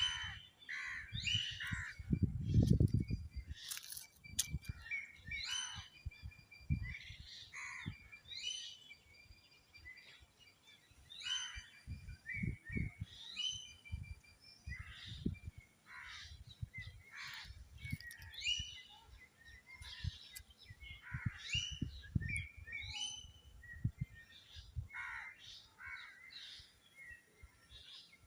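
Birds chirping and calling, many short high calls one after another, with scattered low thumps, the loudest about two to three seconds in.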